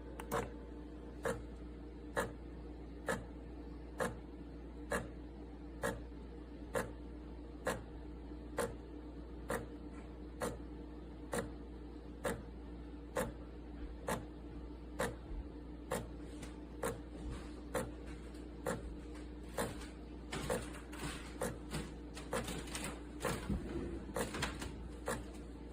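Espresso machine running with a steady hum and a sharp click a little more than once a second. In the last few seconds the clicks come faster and less evenly.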